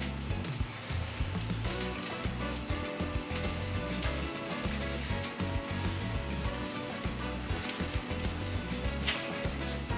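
Egg-battered zucchini slices sizzling steadily as they fry in oil on an electric griddle.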